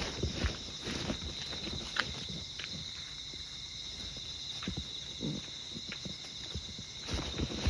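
Insects trilling steadily at a high pitch, with a walker's footsteps at the start and again near the end and a few small clicks in the quieter stretch between.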